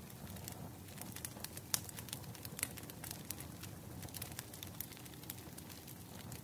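Wood bonfire crackling: irregular sharp pops and snaps several times a second over a low steady rumble of the burning fire, with one louder pop a little under two seconds in.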